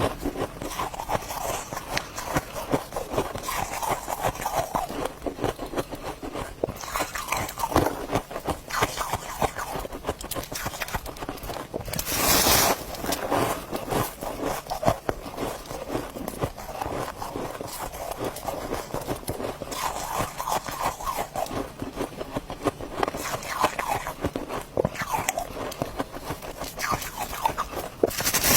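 Ice being bitten and chewed: continuous crisp crunching, with a louder bite about halfway through and another at the end.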